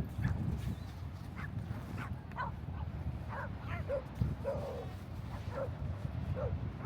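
A dog barking in a series of short, scattered barks over a steady low rumble.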